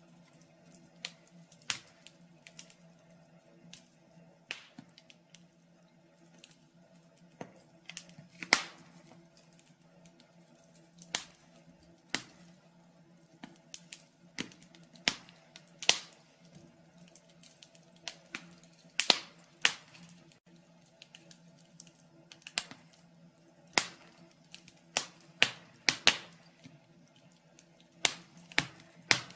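Wood fire burning in a fireplace, crackling with sharp irregular pops and snaps, some singly and some in quick clusters.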